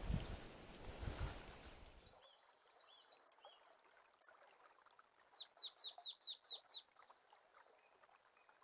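Songbirds singing: a fast high trill, scattered chirps, then a quick run of about seven down-slurred notes. Before the birdsong, the first two seconds hold a low outdoor rumble with knocks that cuts off suddenly.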